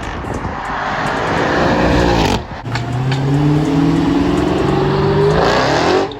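Car engine revving hard at high rpm: the revs climb, drop briefly about two and a half seconds in, then climb again before cutting off near the end.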